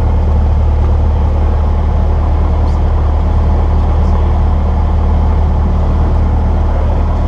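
Cessna 172's piston engine and propeller running at a steady speed, a loud, even drone with no change in pitch.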